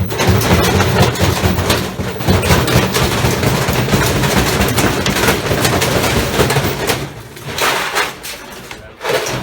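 Washing machine running with loose heavy objects in its drum: loud, rapid banging and clattering over a low drone. It starts abruptly and eases after about seven seconds.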